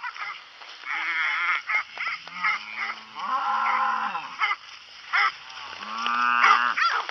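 Cows mooing: a short moo about a second in, then two long, drawn-out moos, one around the middle and one near the end.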